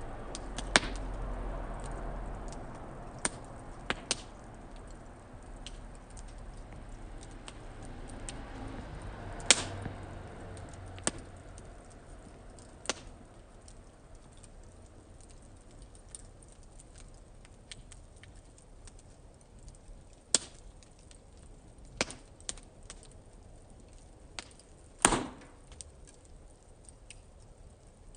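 Wood fire in a fire pit crackling, with sharp pops and cracks at irregular intervals, the loudest about a third of the way in and again near the end. A low rush of flame underlies the first third and then dies down.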